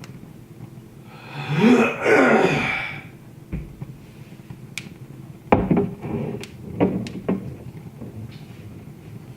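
Wood fire in a fireplace crackling, with scattered sharp pops in the second half. About a second in comes a louder sound lasting a couple of seconds whose pitch slides up and down.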